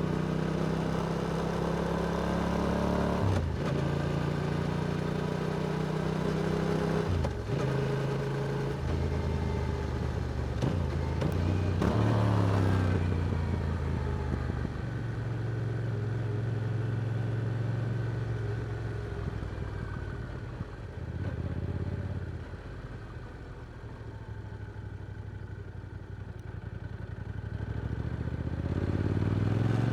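Yamaha R7's parallel-twin engine through an Akrapovič exhaust, riding: it pulls up through the gears with brief breaks at two shifts in the first few seconds. It then eases off and runs lower and quieter for a long stretch, before picking up again near the end.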